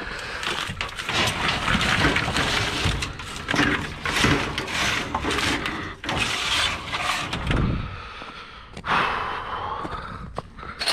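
Scrap being handled: scraping and clattering with many sharp cracks and knocks.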